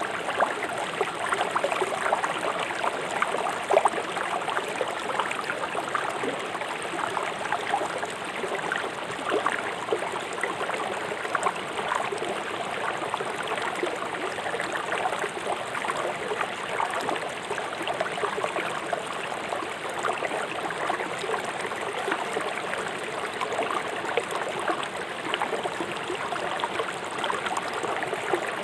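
River water rushing over stones, a steady dense splashing and gurgling.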